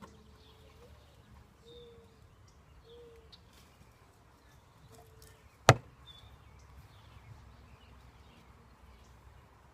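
Honeybees buzzing faintly as they fly past around an open hive, with one sharp knock a little over halfway through.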